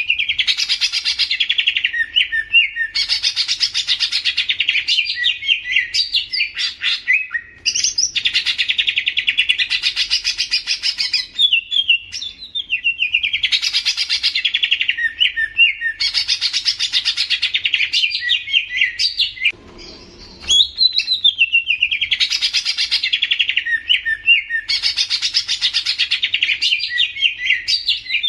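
A green leafbird (cucak ijo) singing a loud, rapid warbling chatter in repeated phrases of about two seconds with short gaps between them. The song breaks off for a moment near two-thirds of the way through, when a brief low rustle is heard.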